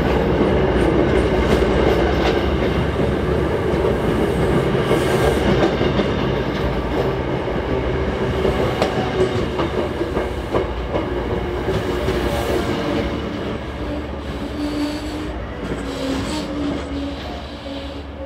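Passenger train rolling past on steel rails, with scattered clicks from the wheels, growing quieter as it moves away.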